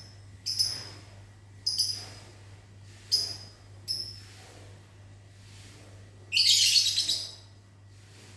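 Lovebirds chirping: short, sharp, high chirps every second or so, then a longer, louder burst of shrill chattering about six seconds in.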